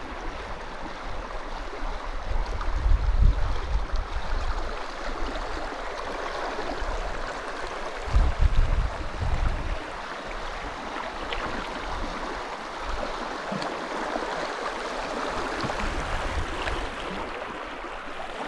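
Steady rushing of river water, with wind buffeting the microphone in low rumbles about three seconds in and again around eight to nine seconds in.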